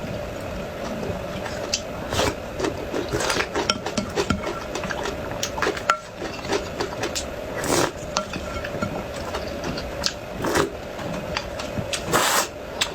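Close-miked eating sounds: irregular chewing and mouth noises, with utensils clicking and scraping against dishes.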